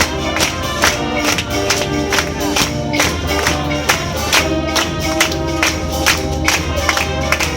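Concert wind band playing a lively piece: sustained brass and woodwind lines over a steady, evenly spaced percussion beat.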